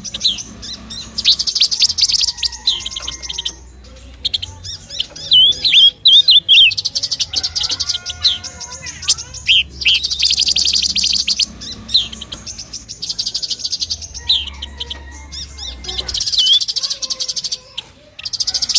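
Oriental magpie-robin (kacer) song: loud whistled, gliding phrases alternating with long stretches of rapid buzzy chattering trills, repeated several times.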